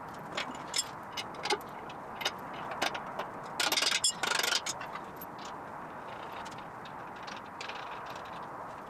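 Scattered light clicks and ticks over a steady background hiss, with a brief burst of dense rattling about three and a half seconds in.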